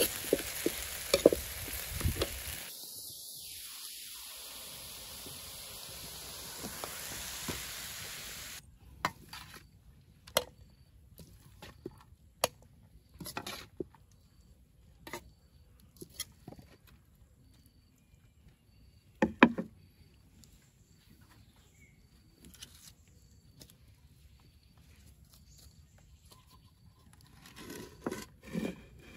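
Food sizzling in a hot pan, a steady frying hiss with a few sharp utensil clicks, which stops abruptly about nine seconds in. After that come scattered short clicks and knocks over a quiet background, with a few soft low thumps near the end.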